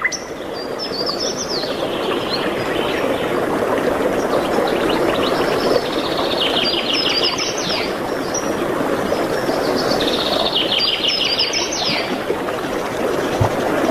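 Songbirds singing high sweeping phrases, with a fast trill twice, about six and ten seconds in, over a steady rushing noise.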